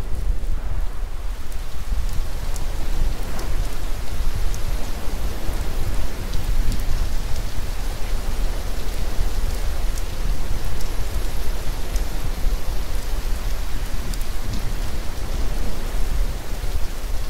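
Steady rain falling, with a deep low rumble underneath and scattered faint drip-like ticks.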